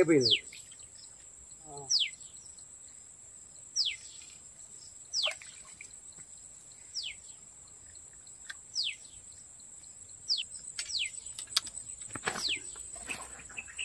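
A bird repeating a short, high whistle that falls in pitch, about once every one to two seconds, over a steady high-pitched insect drone.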